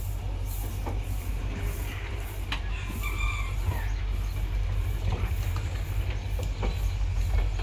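Rake of ICF passenger coaches rolling past while being shunted: steady low rumble with the wheels clicking over the rail joints. A short pitched call sounds over it about three seconds in.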